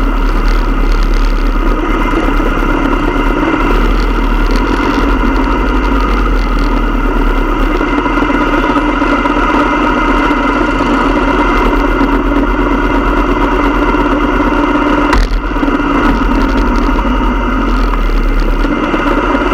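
Motorcycle engine running steadily, with a brief click and a short drop in level about fifteen seconds in.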